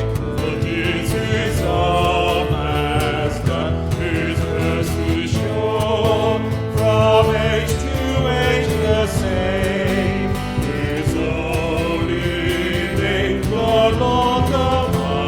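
Hymn singing with acoustic guitar accompaniment: a sung melody with vibrato over steady strummed chords.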